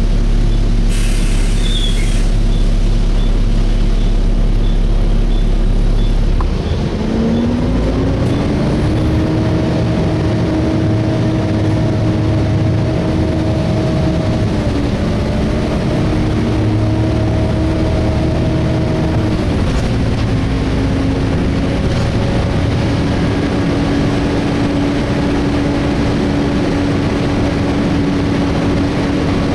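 Volvo B7TL double-decker bus's six-cylinder diesel, heard from inside the bus, idling steadily and then pulling away about seven seconds in. The engine note rises, drops back at two gear changes, and then settles into a steady run.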